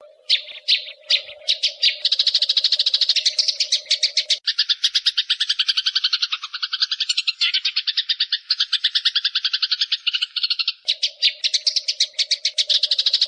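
Eurasian tree sparrows chattering in a fight: an unbroken run of fast, high-pitched chirps, about ten a second, with a steady low hum underneath that drops out for several seconds in the middle.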